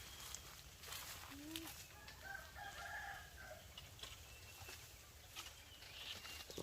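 A rooster crowing faintly, one crow lasting about a second, with a few soft clicks around it.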